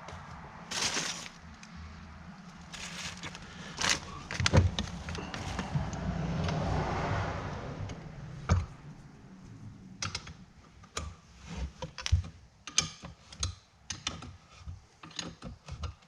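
Small metal hardware on a truck vent window's pivot stud clicking and rattling as a washer, spring, lock and nut are fitted and the nut is run on; a run of quick, uneven clicks near the end.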